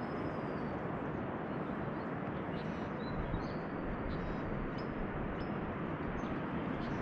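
A few short, high bird chirps and whistles over a steady rushing noise.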